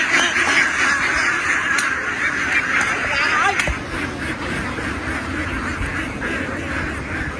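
A large flock of domestic ducks quacking all at once in a dense, continuous chorus. It gets a little quieter about halfway through.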